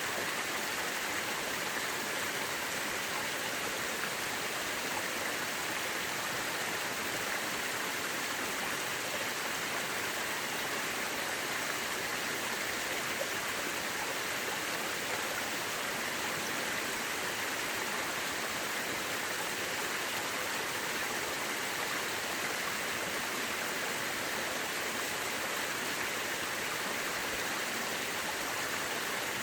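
Mountain river rushing steadily over rocks, an even hiss of flowing water that does not change.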